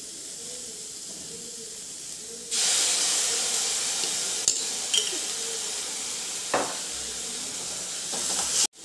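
Chopped vegetables sizzling in hot oil in an aluminium kadai as soy sauce is added. The sizzle turns much louder about two and a half seconds in, with a few light clicks of a steel spatula against the pan.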